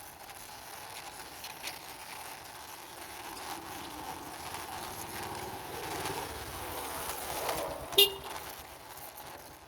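A plastic toy vehicle's wheels rolling across a surface as it is pushed by hand, a steady rushing rumble that swells a little in the middle. A sharp short click about eight seconds in.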